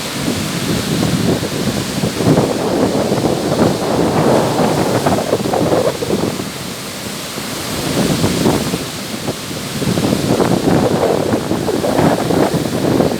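Black Sea surf: waves washing onto the shore, the sound swelling and easing every few seconds, with wind buffeting the microphone.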